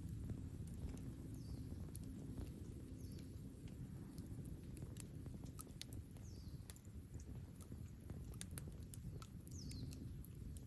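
Wood campfire burning, crackling with irregular sharp pops over a low, steady rumble.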